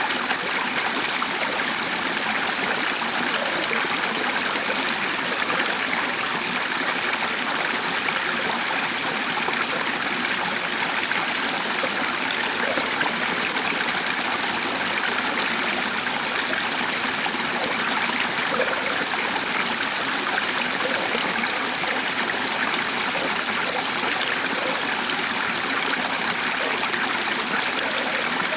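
Running water, as of a stream, flowing steadily with an even rushing and trickling that doesn't change.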